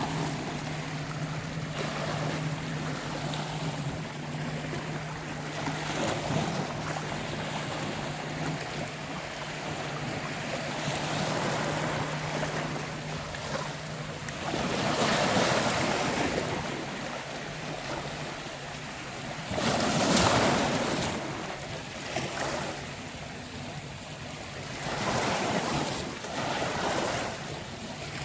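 Sea waves washing onto a beach, a steady rush that swells louder with each breaking wave, three times in the second half. A steady low hum runs under the first half and fades out about halfway.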